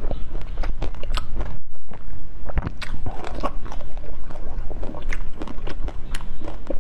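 Close-miked chewing and biting of peeled lychee flesh: a dense run of small mouth clicks and smacks, broken by a brief gap a little under two seconds in.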